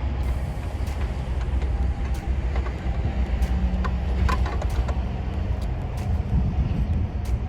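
Scattered sharp clicks and clinks of hand tools and metal parts during reassembly of the minivan's engine intake, over a steady low rumble.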